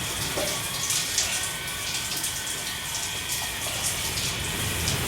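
Steady rush of water noise.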